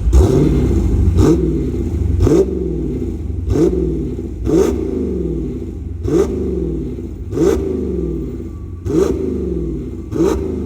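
Dodge Challenger with a reworked exhaust and tune being revved repeatedly in short throttle blips, about one a second: each rev rises and falls back to a steady idle.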